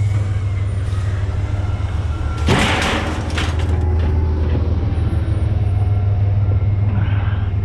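Truck engine idling with a steady low rumble, and a short noisy burst, like a hiss or clatter, about two and a half seconds in.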